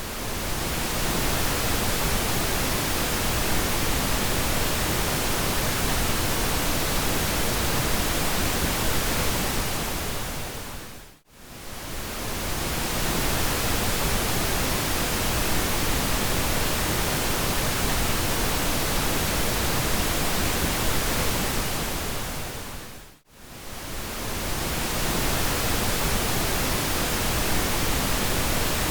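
Pink noise: a steady, even hiss across the whole range, fading briefly to near silence and back twice, about 11 and 23 seconds in, where the looped track restarts.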